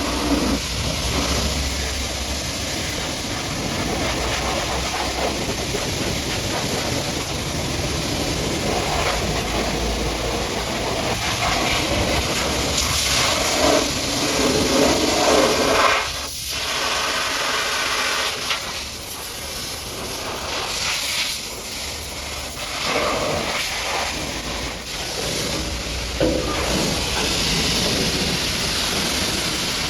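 High-pressure washer jet spraying water onto a truck: a loud, steady hiss that swells and fades as the jet moves, dropping off sharply for a moment about halfway through.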